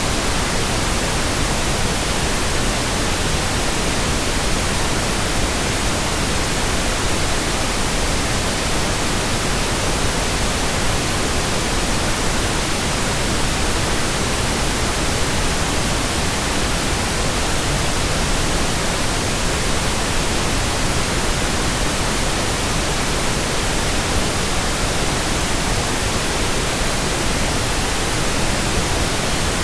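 Steady, unchanging white noise: an even hiss spread across all pitches, from low to high, with no rise, fall or breaks.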